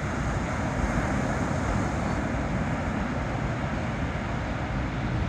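Ocean surf washing in and breaking against rocks: a steady, even rush of noise with a low rumble underneath.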